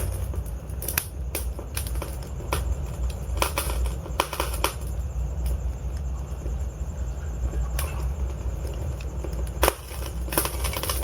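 Wood fire burning in a fireplace: logs crackling and popping over a steady low rumble of flames, with snaps coming in irregular clusters and a quick run of them near the end.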